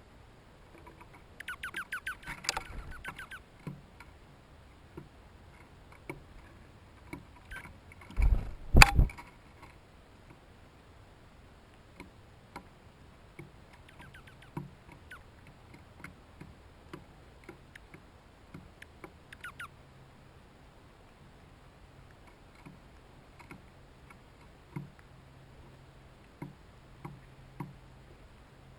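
Quiet feeder ambience of small scattered ticks and taps, with a rapid chattering call about two seconds in and again around nineteen seconds. A loud, low double thump about eight seconds in is the loudest sound.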